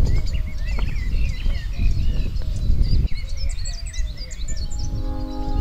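Songbirds chirping and singing in many short rising and falling notes, over a low, uneven rumble. About five seconds in, a sustained chord of music comes in.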